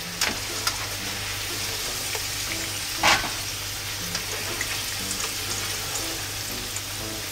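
Starch-coated potato slices shallow-frying in rice oil in a frying pan: a steady sizzle. A sharp clack stands out about three seconds in, with a few lighter clicks as the slices are lifted out.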